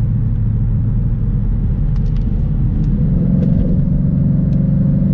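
Car engine and exhaust running steadily as the car drives. The engine note rises and gets a little louder about three seconds in, as it accelerates.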